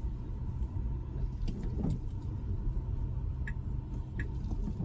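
Low, steady rumble of a Tesla Model Y's cabin and tyre noise while it creeps along slowly. About three and a half seconds in, the turn-signal indicator starts clicking, roughly one click every 0.7 seconds.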